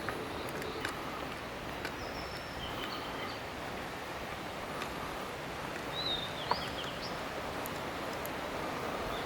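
Steady rush of a mountain stream, with a few short bird chirps, one falling, and occasional sharp clicks.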